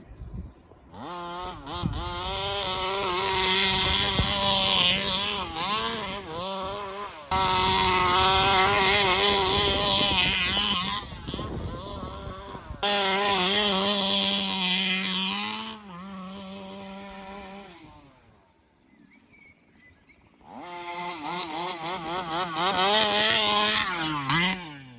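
A 1/5-scale petrol RC buggy's 29cc two-stroke engine running and revving up and down as the buggy is driven. It comes in stretches with sudden jumps in level, and drops almost to silence for a couple of seconds about three-quarters of the way through before revving loudly again.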